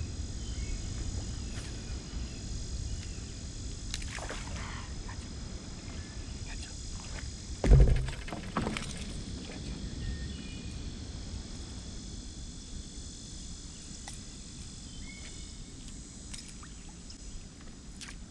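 Water sloshing against a paddle board on a river, over a steady low rumble, with a sudden loud thump about eight seconds in and a smaller one just after.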